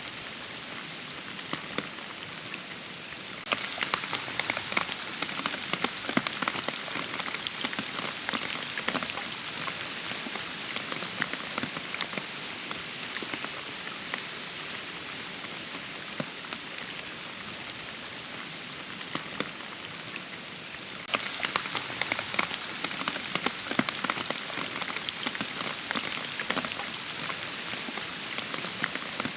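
Steady rain falling, a continuous hiss dotted with many sharp, close drop impacts. It turns louder and denser a few seconds in, eases off by the middle, and grows heavier again about two-thirds of the way through.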